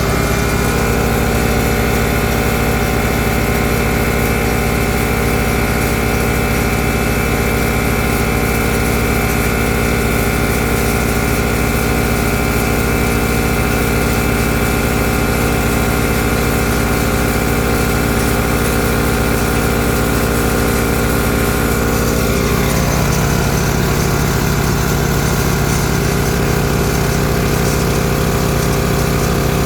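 Generator engine running steadily under the load of an air compressor, its note shifting briefly about 22 seconds in before settling.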